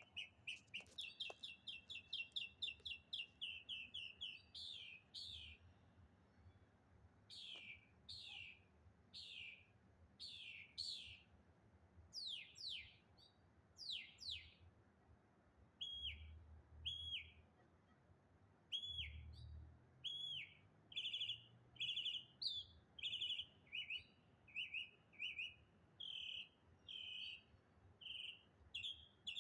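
A single songbird calling in several different ways: first a fast run of short chips, then a string of falling, slurred whistled notes, then short hooked notes repeated about once or twice a second.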